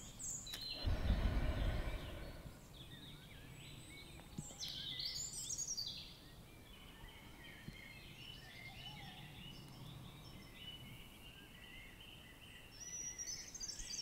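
Birds chirping in scattered short calls, with a brief low rumble about a second in.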